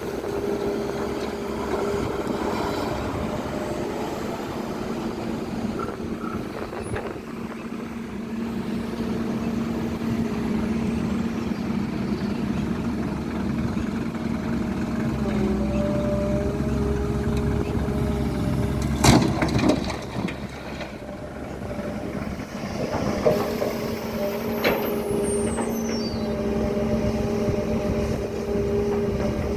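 Heavy diesel construction-machine engine running at a steady pitch under load, with one short loud burst of hissing air about two-thirds of the way through.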